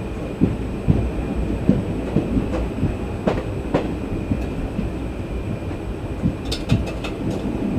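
Express passenger train running, heard from inside a coach: a steady low rumble with irregular knocks and clatter of the wheels over the track, and a few sharp clicks near the end.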